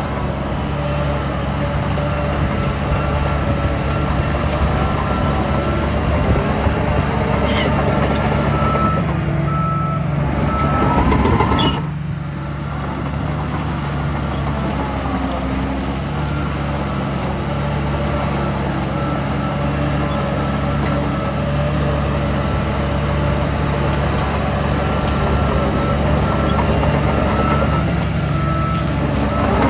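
Heavy diesel earthmoving machinery running steadily at a landfill, with a reversing alarm beeping over the engine. About eleven seconds in, an engine revs up with a rising pitch, then settles.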